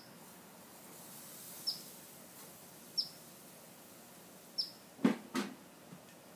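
A bird repeating a short, high, falling chip note about every second and a half. About five seconds in come two sharp clanks as the gas grill's metal lid is shut.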